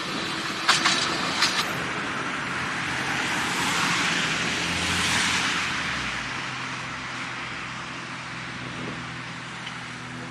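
A narrow-gauge electric tram running past: its noise swells to a peak about five seconds in and then fades away, with a few sharp clicks near the start.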